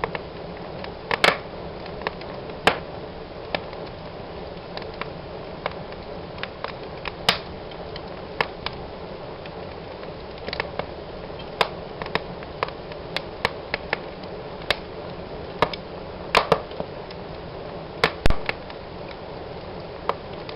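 Wood fire burning in a fireplace: a steady low rush of flames with irregular sharp crackles and pops, a few of them loud.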